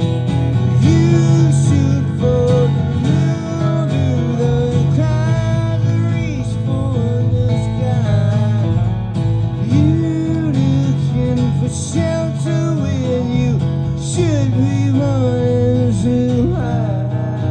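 Live band music led by acoustic guitars, strummed chords under a melody line that slides and bends between notes, with no lyrics sung.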